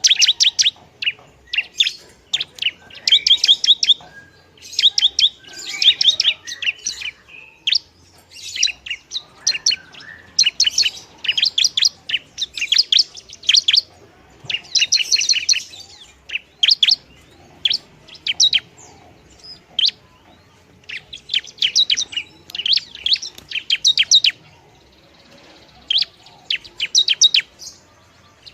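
Long-tailed shrike (pentet) singing in repeated phrases of rapid, high chattering notes, each phrase about a second long, with short pauses between.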